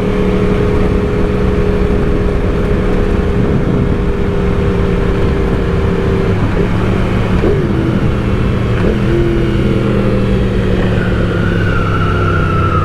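Yamaha R1 sport bike's inline-four engine running at steady highway cruising speed, with wind rushing past. Its pitch eases down in two small steps around the middle, and a higher tone slides downward near the end.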